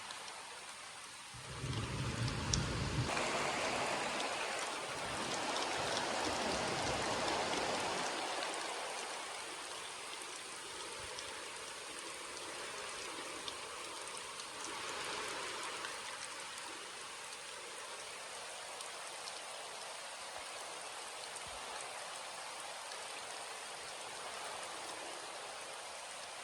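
Steady rain falling, heavier for the first several seconds with a brief low rumble, then settling into an even patter.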